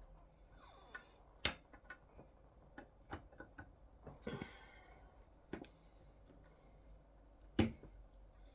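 Clicks and knocks of the dock's bar end and solid aluminium rods being handled and pushed together as the bar end is fitted on, with a short scrape about four seconds in and the two loudest knocks about a second and a half in and near the end.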